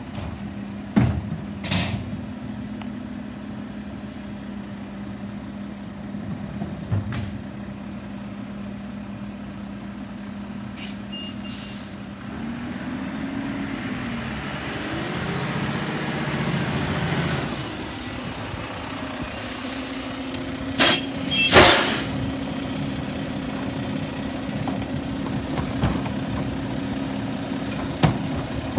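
Garbage truck engine running steadily, growing louder for several seconds midway as the truck moves up. About three-quarters of the way in comes a short, loud air-brake hiss, with a few knocks and brief beeps scattered around it.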